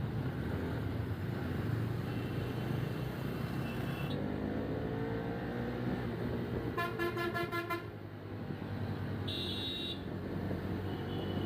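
Vehicle horns honking in road traffic over steady engine and road noise: a thin beep in the first half, a rapidly pulsing horn a little past the middle, and a sharp short beep later on.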